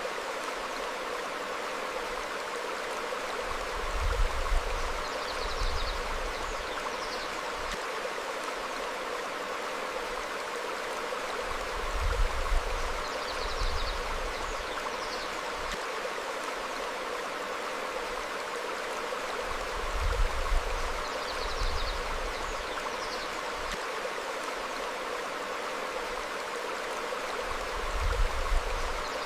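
Stream flowing over rocks, a steady rush of water, with faint short bird chirps now and then. A low rumbling thump comes about every eight seconds, four times.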